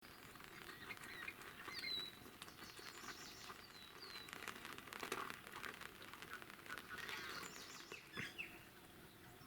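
Faint bird calls: short, high whistles that fall in pitch, repeated every couple of seconds, among scattered soft chirps and ticks.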